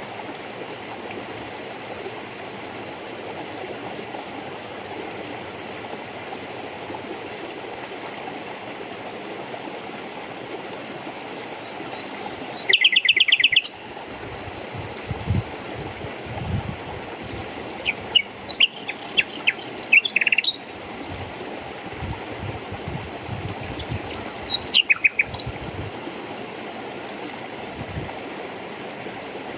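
Small birds calling in quick runs of high chirps, three times, about 13, 19 and 25 seconds in, over a steady rush of flowing water, with a few soft low thuds between the calls.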